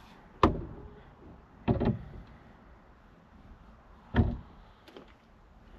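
Three dull knocks with solid low thuds, spaced a second or two apart. They come from the steering wheel being knocked and pushed into place on the van's steering column shaft.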